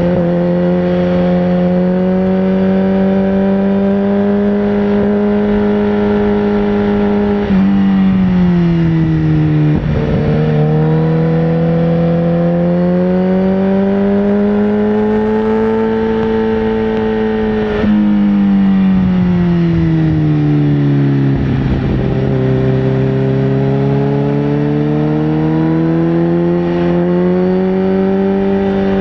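Sportbike engine running under way, its note holding steady, then sinking as the bike slows and climbing again as it speeds up. The pitch steps up suddenly twice, about a third of the way in and again past the middle, each time followed by a slow fall.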